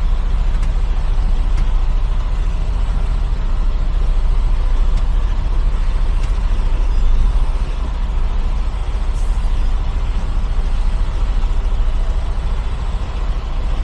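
Semi truck's diesel engine running low and steady during slow backing to a loading dock, heard from inside the cab.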